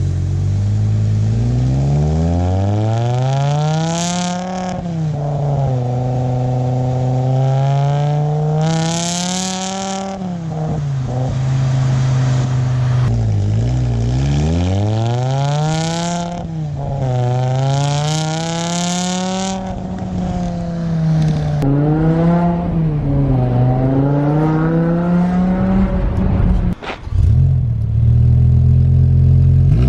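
BMW M5's V10 with its resonators deleted, accelerating hard through the gears in a tunnel. The engine note climbs and then drops back at each upshift, several times over.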